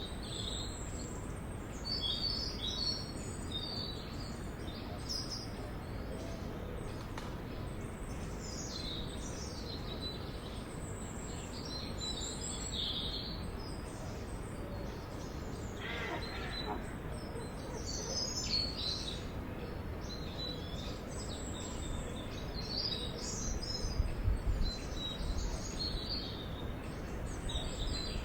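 Several small songbirds chirping and trilling in short high phrases, over a steady low background hiss and rumble of a forest.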